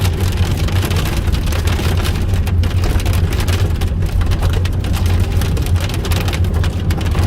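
Hail and heavy rain pelting the roof and windshield of a moving car, heard from inside the cabin as a dense, steady clatter over the low rumble of the car driving.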